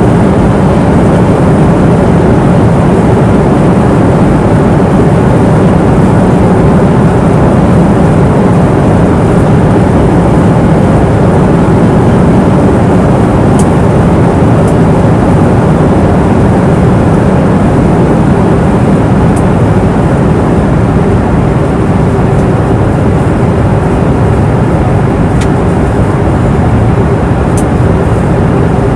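Airliner cabin noise in flight: a loud, steady rush of engine and airflow noise, deep and even, with a steady hum running through it and a few faint high ticks.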